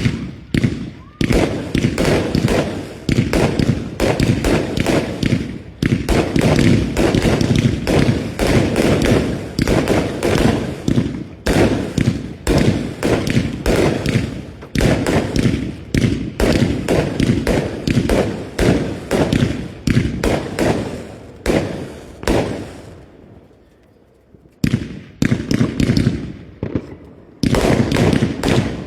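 Fireworks going off in a rapid, continuous string of bangs and crackles, many per second, with a brief lull about three-quarters of the way through before the bangs start again.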